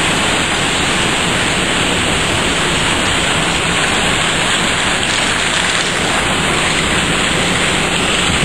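Hailstorm: hail and heavy rain pelting down in a loud, dense, steady hiss with no gaps.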